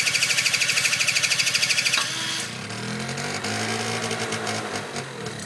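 Honda Razz scooter's electric starter cranking fast, then about two seconds in its small two-stroke engine catches and runs with a wavering pitch, starting to die away near the end: the engine won't keep running once started.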